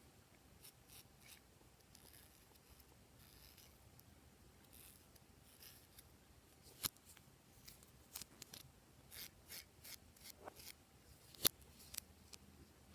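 Quiet hand-handling sounds while slime ingredients are worked: scattered soft clicks and short hissy scraping strokes, with sharper clicks about 7 seconds in and the loudest about 11 and a half seconds in.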